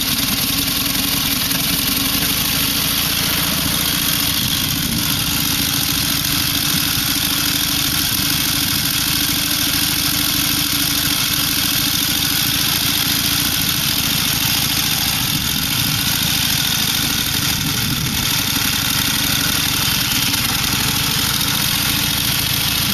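1927 AJS H1 motorcycle's side-valve V-twin engine running steadily at idle, evenly and without a break.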